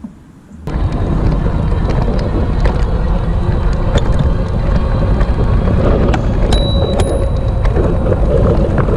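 Wind buffeting the microphone: a loud, steady, low rumbling that starts suddenly under a second in, with a few faint brief high tones partway through.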